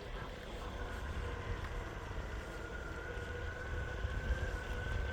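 Meepo Hurricane electric skateboard riding along: a steady high motor whine that creeps slightly up in pitch, over a constant low rumble of the honeycomb wheels on pavement.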